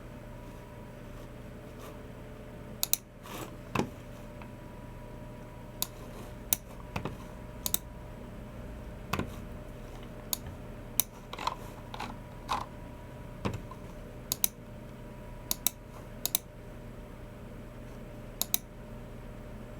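Sparse, irregular clicks from a Logicool MX Keys Mini's low-profile keys and a Logicool G304 mouse, some coming in quick pairs, over a steady low hum.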